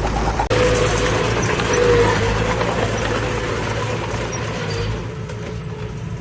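Heavy diesel earthmoving machinery running, with a dense rushing noise over the engine after an abrupt cut about half a second in.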